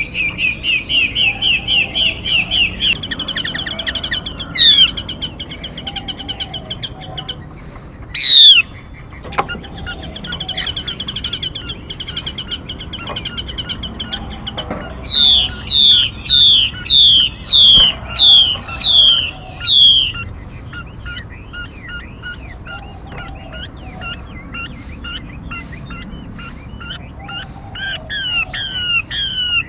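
Recorded calls of a female mi bird, played as a trapping lure: a rapid trill of repeated notes, two loud sharp down-slurred calls, another trill, then a run of about eight loud down-slurred calls in the middle, followed by softer quick chirps.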